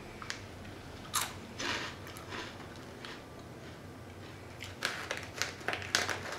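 Close-up crunching and chewing of baked Calbee shrimp chips, light puffed snacks, in irregular crisp crunches: a few spaced ones, then a quicker run near the end.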